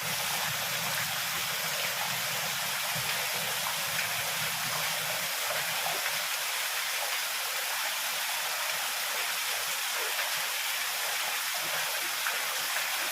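Heavy rain falling steadily, a dense even hiss with fine scattered patter, with a low rumble underneath that fades out about five seconds in.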